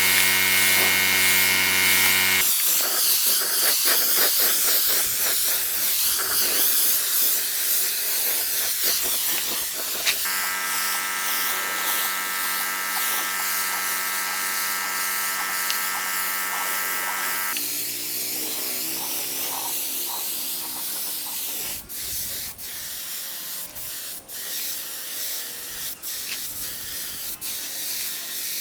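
A small electric power tool's motor buzzing steadily in two long spells, with rougher tool noise between them. A run of sharp clicks and knocks follows near the end.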